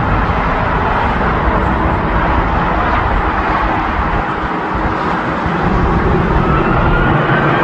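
Jet airliner engines running with a loud, steady rush, and a thin whine rising near the end.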